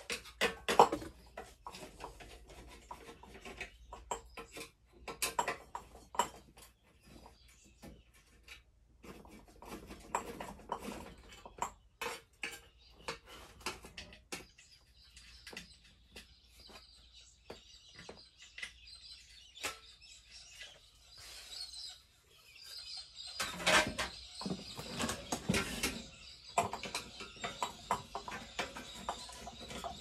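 Birds outside chirping and calling in short, scattered bursts, growing busier and louder from about two-thirds of the way in.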